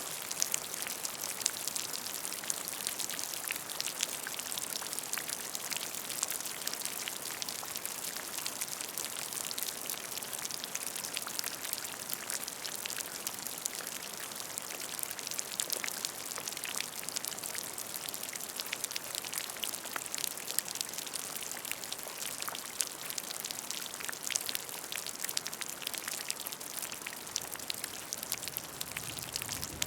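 Steady rain falling on a puddle of water: a constant hiss with many close, crisp drops pattering on the surface.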